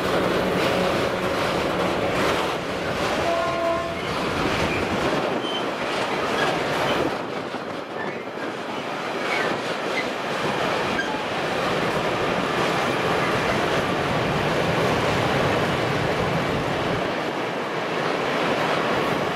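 Freight wagons of a PKP Cargo mixed train rolling past, covered coil wagons then open coal wagons: a steady rumble and clatter of wheels over the rails, with occasional short high wheel squeals.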